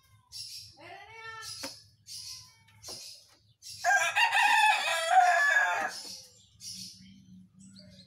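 Agitated caged whistling thrush (ciung batu) giving short harsh rasping calls about twice a second, with a gliding pitched call about a second in. A louder pitched call lasting about two seconds, the loudest sound, comes about four seconds in.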